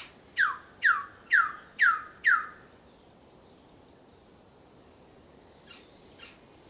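Wilson's bird of paradise calling: five sharp notes, each sliding steeply down in pitch, about two a second, then stopping about two and a half seconds in. A steady high drone of forest insects runs underneath.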